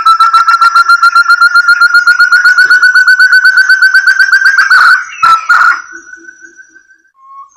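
Forest partridge (puyuh hutan) call: a long rapid series of clear repeated whistled notes, slowly rising in pitch, that stops about five seconds in. A couple of sharp knocks follow, and a new series begins near the end.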